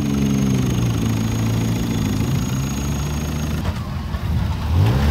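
Wreck-race car engine running and revving, its pitch wavering up and down, then climbing steeply near the end as the car accelerates.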